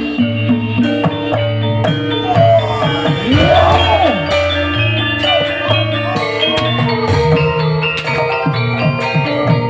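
Live gamelan-style music: metallophones ringing steady struck notes over a running drum pattern. About three seconds in, a tone slides up and back down for about a second.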